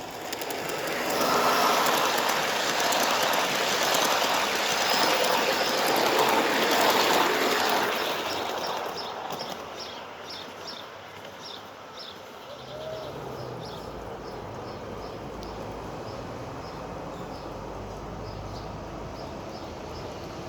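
Spur 1 model diesel locomotive and train running past on garden-railway track, with a rolling rush of wheels on rail that swells and then fades away over the first eight seconds or so. After that the sound goes quieter, with a low hum and a light, regular ticking.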